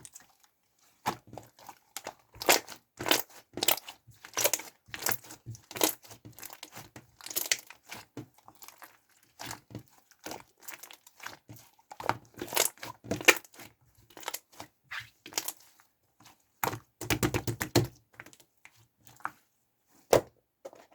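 Crinkly material handled by hand: irregular crinkling and sharp crackles with small taps, with a quick burst of rapid crackling near the end.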